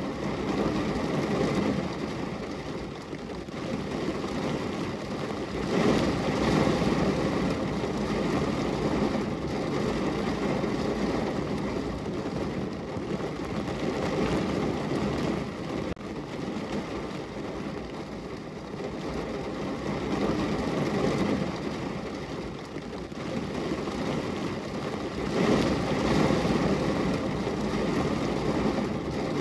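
Steady rain falling against a window pane. Under it a low rumble swells and fades every few seconds.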